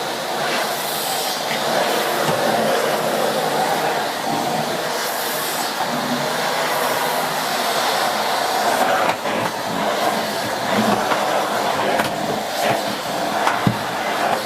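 Miele C2 Compact (S6 Cat and Dog) cylinder vacuum cleaner with a 2000 W motor running steadily while its Allergotec floorhead is pushed over a rug, with a few short knocks near the end.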